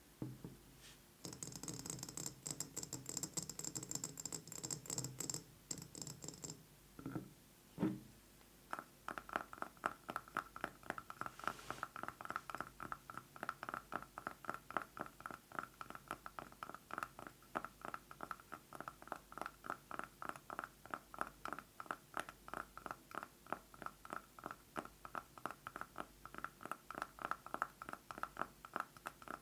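Long fingernails scratching a candle jar for a few seconds, then, after two short rubs, tapping it rapidly and evenly, several taps a second, each tap ringing at the same pitch.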